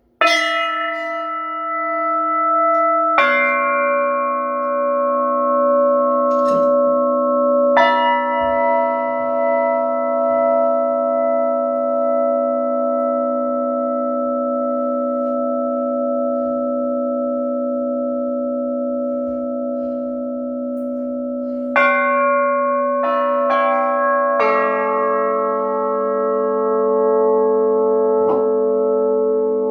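Bells struck one at a time, each note ringing on long and overlapping the next. Three strikes come several seconds apart, then a quicker run of about four strikes near the end.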